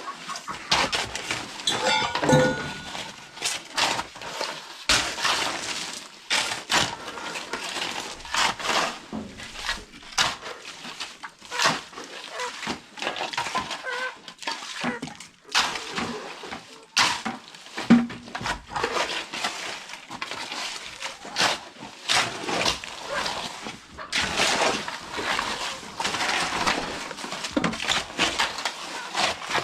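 Metal tools working a gritty cement-and-stone mix: repeated, irregular scraping and clattering strokes, one after another throughout.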